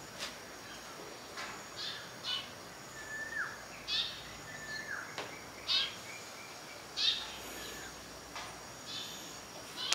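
Birds calling outdoors: short high chirps every second or two, with a couple of downward-sliding whistled notes, over a faint steady high-pitched hum.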